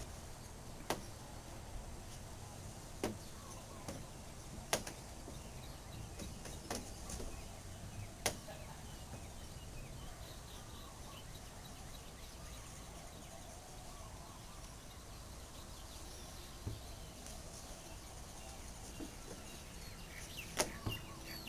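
Low steady background noise with a handful of short sharp clicks a few seconds apart, most of them in the first half.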